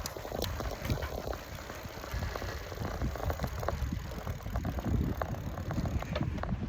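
Riding a Trek FX1 hybrid bicycle: steady rumble of the tyres rolling and wind buffeting the microphone, with scattered small clicks and ticks from the bike and surface.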